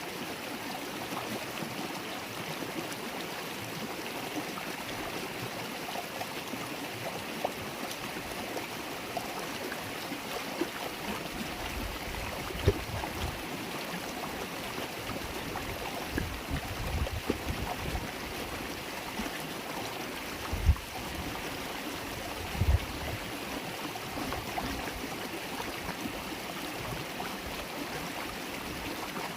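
River water babbling in a steady, even flow. A few brief low thumps come in around the middle.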